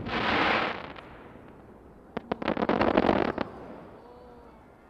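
Fireworks going off: a crackling, hissing burst at the start, then about two seconds in a quick run of sharp pops and crackles lasting about a second.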